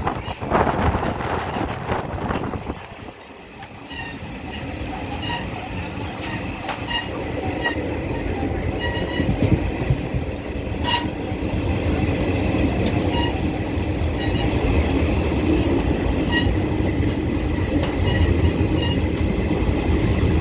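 Express passenger train running on the rails: a steady wheel-and-track rumble with recurring clicks, growing louder from about four seconds in.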